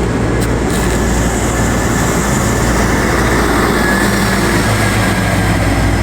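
Steady road traffic noise with a continuous low engine hum from a vehicle running close by.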